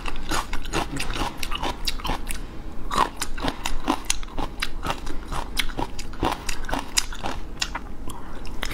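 Close-miked chewing and mouth sounds of a person eating raw seafood: many sharp, irregular wet clicks and crackles of biting and chewing.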